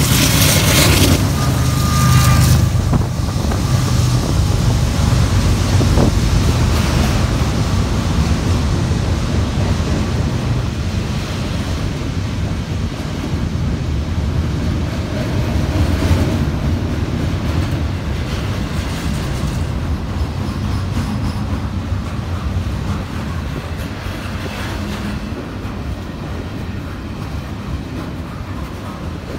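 Diesel locomotive engine running loud in the first few seconds as the last locomotive passes beneath, then the steady rumble of a freight train's double-stack container cars rolling by on the rails, slowly growing quieter.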